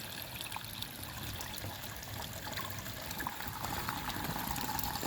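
River water running over rocks: a steady, even rush.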